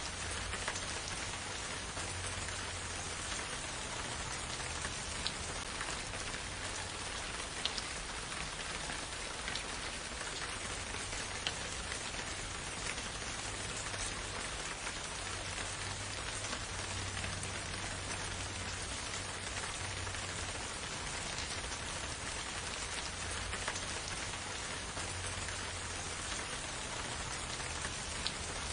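Steady rain falling, a dense even patter with scattered individual drops ticking out above it and a faint low rumble underneath.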